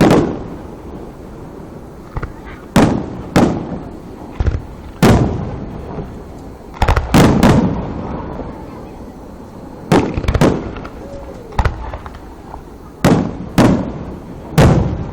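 Fireworks going off: a run of loud booms at irregular intervals, some in quick pairs or threes, each followed by a fading rumble.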